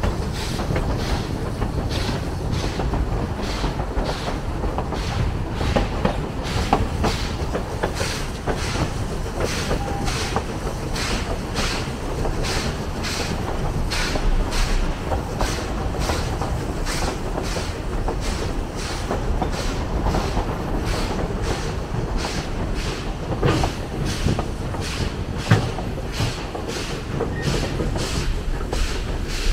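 Narrow-gauge train running steadily, with a continuous rumble and a regular clatter of sharp beats, about two a second.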